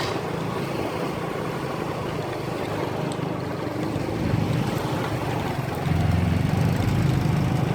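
An engine running steadily under a rushing noise, louder from about six seconds in.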